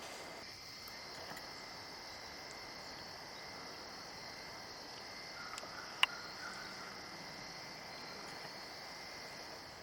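Steady, high-pitched chorus of insects such as crickets, with a fainter steady tone lower down. A single sharp click stands out about six seconds in.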